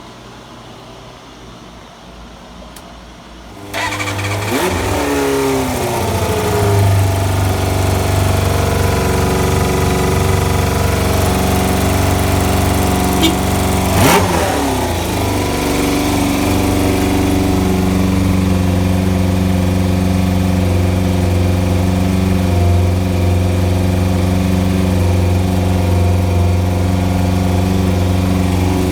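Suzuki Bandit 250's four-cylinder engine, breathing through an aftermarket titanium/carbon full exhaust, catches about four seconds in, revs and settles, then idles steadily. A quick throttle blip comes about halfway through.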